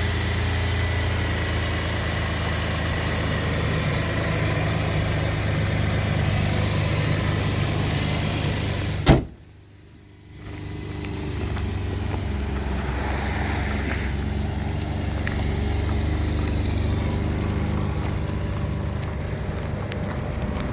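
2016 GMC Canyon pickup's engine idling steadily. About nine seconds in there is a sharp click, and the sound drops away for a second or so before the idle comes back.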